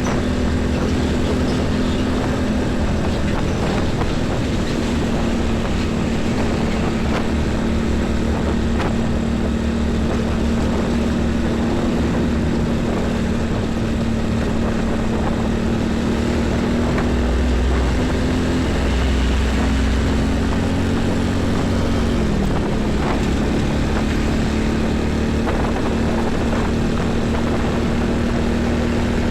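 Heavy highway traffic of diesel trucks and buses: a steady engine drone over low road rumble, its pitch shifting slightly about 22 seconds in.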